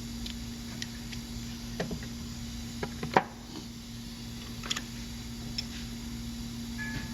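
Scattered light clicks and knocks of hand tools and metal parts being handled during suspension work, with one sharper knock about three seconds in, over a steady low hum.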